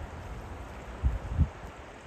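Bow River flowing: a steady rush of water, with two short low thumps about a second in.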